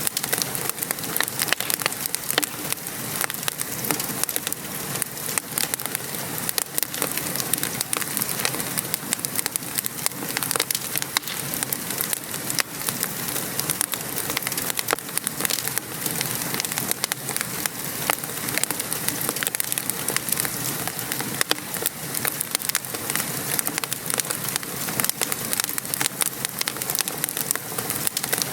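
Steady rain patter mixed with a crackling wood fire: an even hiss of rain with many small, sharp pops and snaps scattered throughout.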